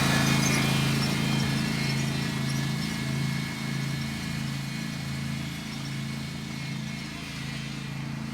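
Lawn mower engine running steadily, growing gradually fainter over the first few seconds as the mower moves away.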